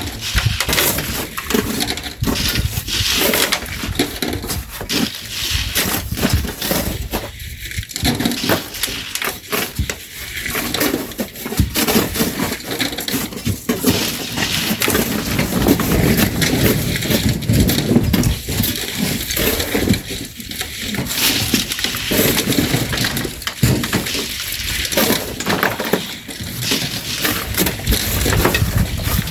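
Shovels working sand and gravel: repeated scraping and crunching with irregular clinks and knocks of stones.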